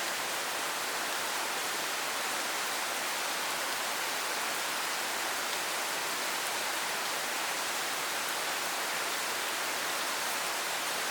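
Steady rain falling, an even hiss of rain on hard surfaces with no breaks or changes.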